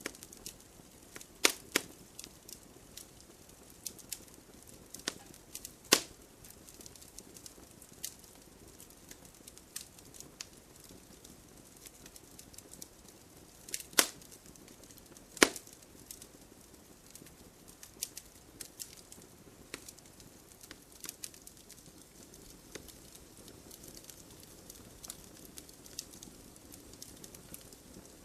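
Wood campfire burning and crackling, with irregular small snaps and a few louder pops.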